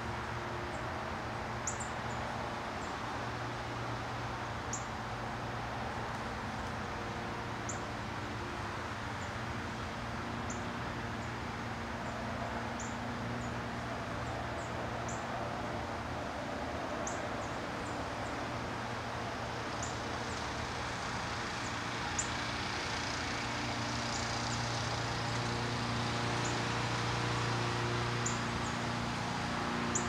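Short, high chip notes from small songbirds every second or two, more frequent in the second half, over a steady low background hum.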